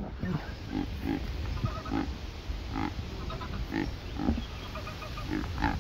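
Cape Barren goose giving a run of short, low, grunt-like calls, one every second or so.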